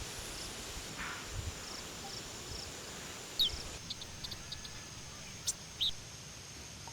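Woodland ambience: a steady high-pitched insect drone, with a few short bird chirps and two quick falling calls.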